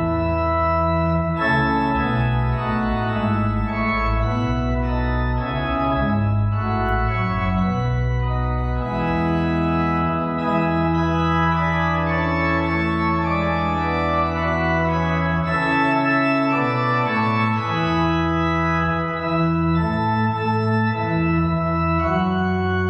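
Organ playing sustained chords over a deep pedal bass, with the low bass dropping out for a few seconds in the middle before coming back.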